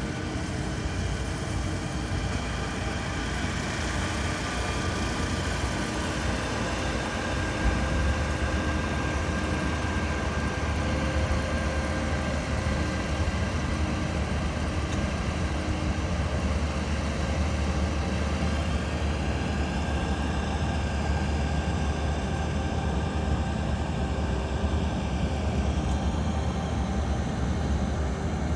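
Rice combine harvester running steadily while cutting. Its low engine hum grows stronger about eight seconds in.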